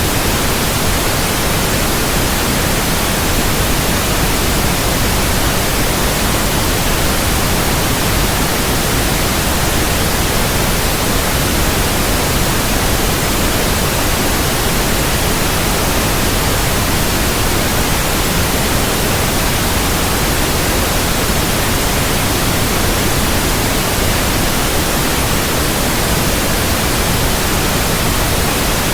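Steady, even noise across the whole range, a little heavier in the low end, with no changes or events: a synthetic white-noise track made for infant sleep.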